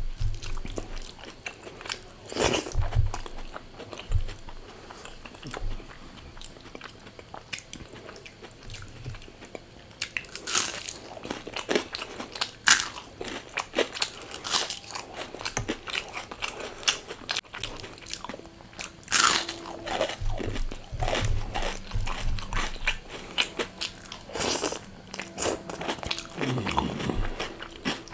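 A person eating close to the microphone: crisp crunching bites into fried food and chewing, in irregular bursts of sharp crunches.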